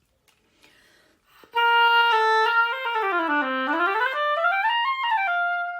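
Oboe played on a newly adjusted reed to test its response: after some faint handling noises, a held note about a second and a half in, then a run that steps down to a low note and climbs back up, ending on a held higher note.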